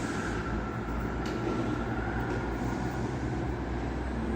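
Class 158 diesel multiple unit's engines running steadily, a low rumble with a faint steady whine above it.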